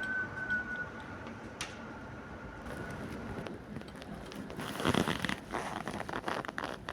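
Strong gusty wind buffeting the microphone, with crackling and rustling that swell to a peak about five seconds in.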